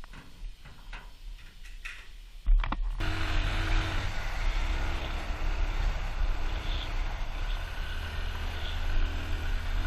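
Faint scattered clicks, then suddenly, about two and a half seconds in, an engine running steadily with a low hum and a rushing noise over it.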